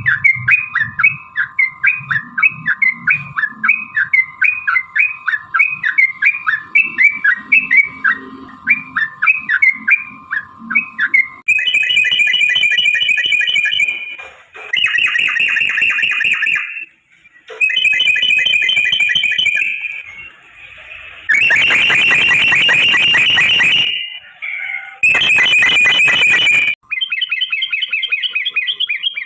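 Yellow-vented bulbul (trucukan) song: first a long run of quick repeated whistled notes, about three a second, over a steady background tone, then from about eleven seconds in a series of dense rolled trills in blocks of two to three seconds that start and stop abruptly, one of them harsh and chattering like a fighting call.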